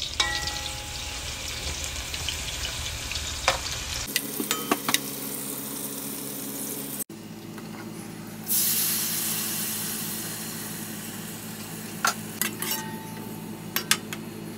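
Sliced red onions frying in oil in a metal pot, sizzling steadily, with a few clicks and scrapes of a slotted spoon against the pot. About eight seconds in a louder sizzle starts and slowly fades as crushed tomatoes go into the hot oil.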